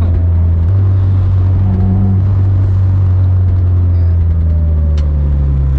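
Inside the cabin of a built 10th-gen Honda Civic Si race car, its turbocharged 1.5-litre four-cylinder and the road noise make a steady, loud, low drone while the car is under way.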